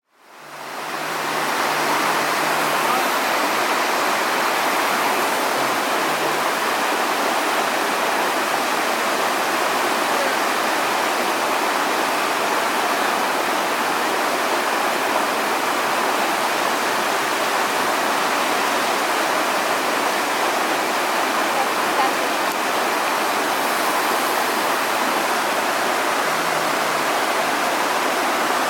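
Waimea Falls pouring steadily, a constant rush of falling water that fades in over the first second or so.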